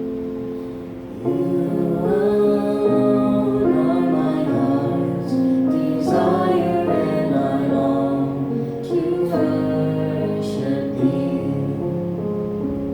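A slow song, sung over gentle instrumental accompaniment.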